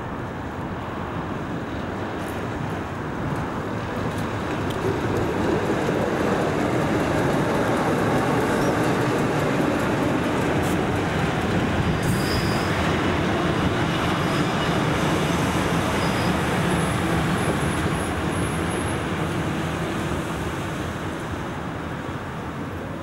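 Diesel locomotive passing with a train of loaded timber wagons. The engine grows louder and peaks as it goes by, then the wagons rumble past with a few faint high wheel squeals.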